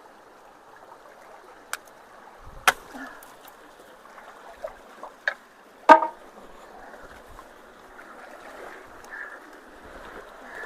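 Stream water running steadily through road culverts, with a few sharp knocks and clacks as debris is poked and pried loose, the loudest about six seconds in.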